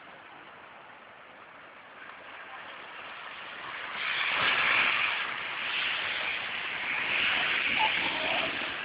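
A vehicle moving through deep floodwater: a rushing, splashing wash of water that swells about four seconds in and stays loud.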